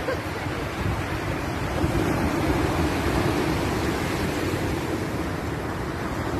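Sea surf: waves washing in a steady, unbroken rush.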